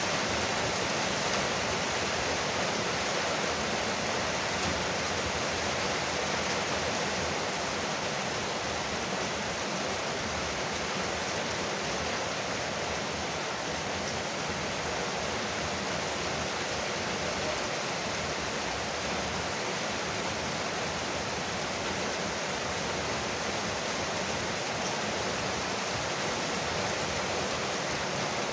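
Heavy rain drumming steadily on a veranda roof, a constant dense hiss with no distinct drops or thunder.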